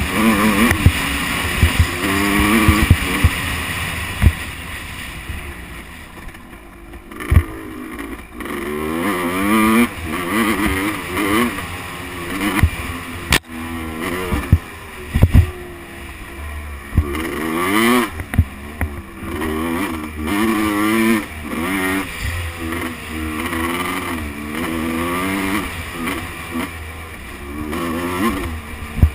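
Motocross bike engine revving up and falling back again and again as it accelerates and shifts through the gears, with scattered sharp knocks, one loud one about halfway through.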